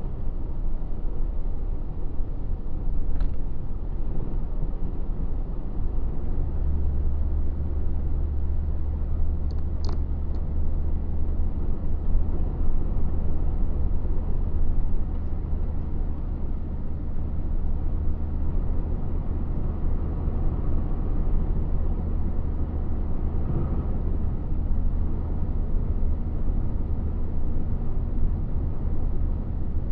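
Truck under way, heard from inside the cab: a steady low drone of engine and road noise that grows heavier about six seconds in and holds, with a couple of faint clicks.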